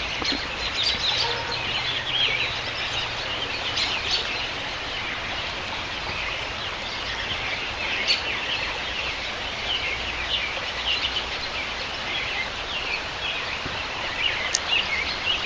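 Small birds chirping and twittering on and off over a steady outdoor background hiss.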